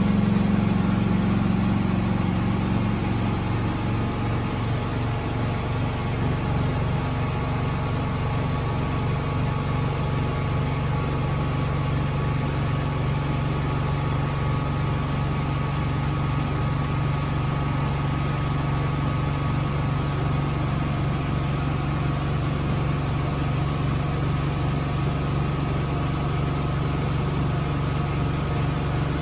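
Miele W Classic washing machine spinning at high speed, a steady motor and drum hum whose pitch steps down a little in the first few seconds, then holds even.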